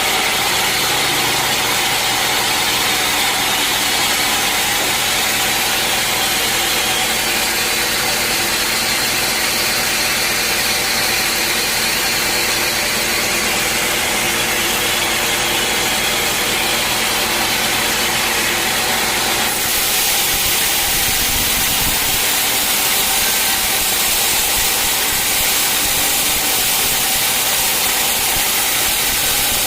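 Sawmill machinery running steadily while sawing teak logs. The low engine note drops away and the sound shifts about twenty seconds in.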